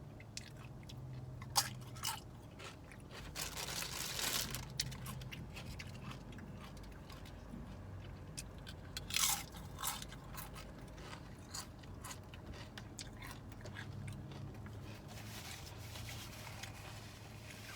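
Close-up chewing of thin, crisp tortilla chips: a few sharp crunches as they are bitten, around two seconds in and again near nine seconds, with stretches of crackly chewing between.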